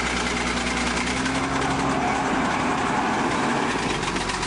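Bulldozer's diesel engine running steadily as the dozer climbs a steep slope, with a fast, even clatter over it.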